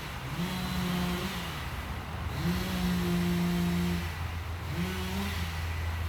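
Two-stroke chainsaw revving in repeated cuts while limbs are being cut: each burst climbs to full speed, holds for about a second and drops back, four times. A steady low engine hum comes in about two-thirds of the way through.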